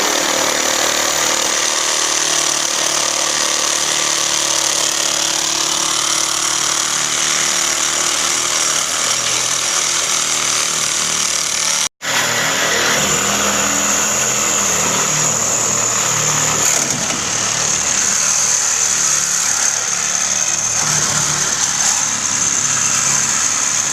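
Reciprocating saw (sawzall) cutting through the thick welded steel end cap of a heat-exchanger tank, running loud and continuous with a high metal-on-metal screech. It stops abruptly for a moment about halfway through, then runs on.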